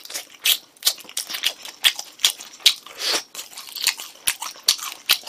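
Close-miked chewing of crispy Korean fried chicken (dakgangjeong): irregular crunches, several a second.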